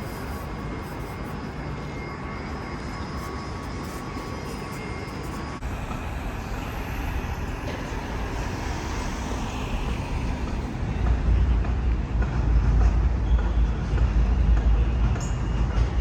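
City traffic noise, steady at first, with a heavier low rumble coming in about two-thirds of the way through, as of a large vehicle passing.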